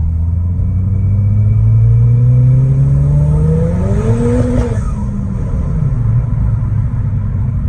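Ford Fiesta ST200's 1.6-litre turbocharged four-cylinder engine through a Milltek non-resonated race exhaust, accelerating with the pitch climbing for about three seconds. The pitch then drops sharply about halfway through, and the engine runs on steadily.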